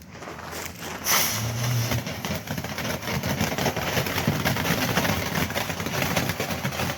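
Firework rocket launching with a sudden rushing whoosh about a second in, followed by a continued rushing noise dotted with many small crackles.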